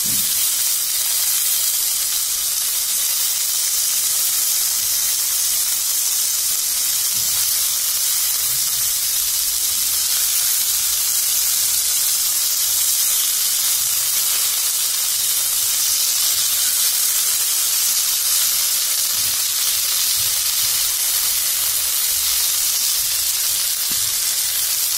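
Rice-flour-coated prawns and curry leaves shallow-frying in a little oil on a dosa griddle: a steady, even sizzle throughout.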